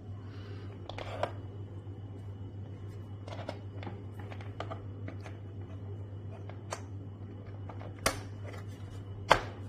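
A steady low hum under a series of light clicks and handling noises, with two sharper clacks near the end.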